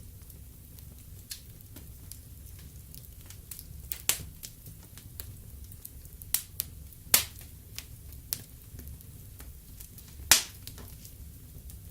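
Wood fire crackling in a fireplace: irregular sharp pops and snaps over a low, steady rumble, with the two loudest pops about seven and ten seconds in.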